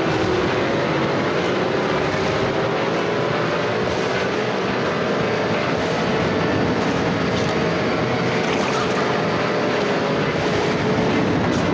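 A motor or engine running steadily, its pitch wavering slowly up and down.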